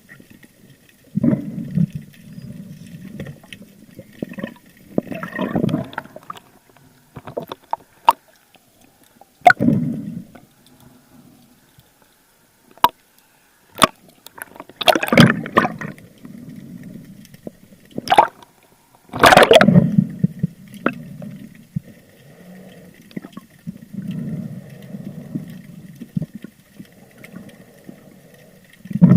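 Water gurgling and bubbling against an underwater camera, in repeated low swells, with sharp clicks scattered through and two louder rushes of bubbles about halfway through.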